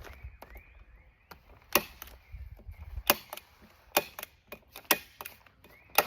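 Staple gun firing staples through greenhouse plastic into a wooden brace: about five sharp snaps, roughly one a second, starting nearly two seconds in.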